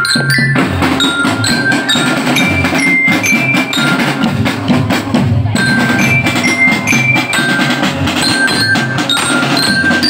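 Loud music played through a carnival sound system: a drum beat under a melody of short, held high notes stepping up and down.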